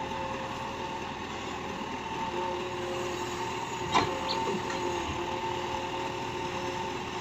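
Backhoe loader's diesel engine running steadily, with one sharp click about four seconds in.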